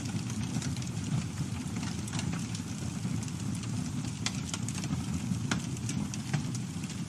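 Campfire burning: a steady low rumble of flames with irregular sharp crackles and pops from the burning wood, a few stronger pops about four and five and a half seconds in.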